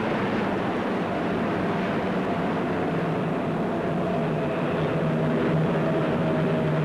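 Airliner's engines droning steadily in a fly-past, a dense rushing noise with a steady low hum and a higher steady tone, growing slightly louder in the second half.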